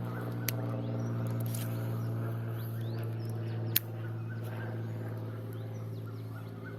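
Birds chirping with short, rising calls over a steady low hum. There is a sharp click about half a second in and a louder one near four seconds.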